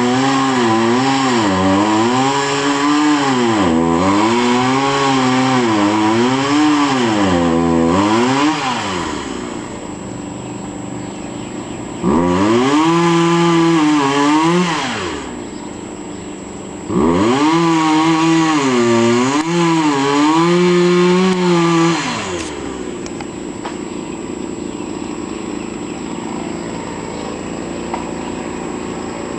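Chainsaw running at full throttle, its pitch sagging and recovering every second or two as it cuts, with two drops to idle between runs. It revs up twice more, then settles to a steady idle for the last several seconds.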